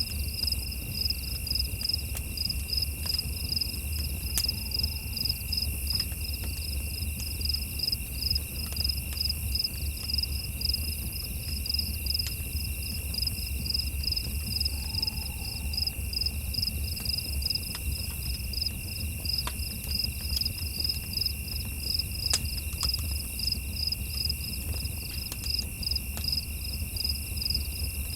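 Crickets chirping in a steady, rapid pulse several times a second, over a second continuous high insect trill. Underneath runs a constant low rumble, with a few faint scattered clicks.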